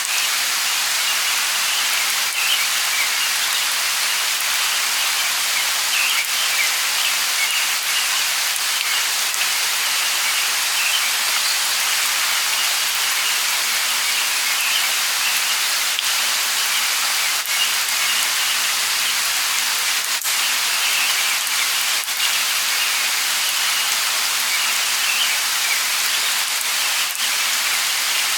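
Steady light rain: an even hiss with scattered drop taps. Small high chirps of birds come through the rain again and again.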